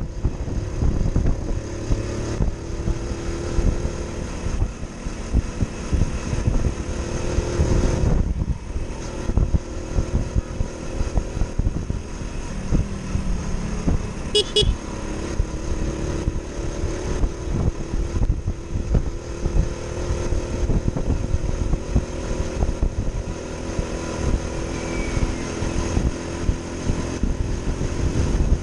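Motorcycle engine running steadily while riding, its pitch drifting a little with the throttle, under heavy low wind buffeting. A brief high-pitched beep comes about halfway through.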